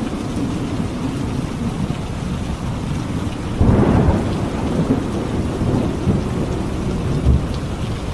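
Steady heavy rain with thunder. A sudden loud peal of thunder breaks in about halfway through and keeps rumbling, with smaller swells of rumble near the end.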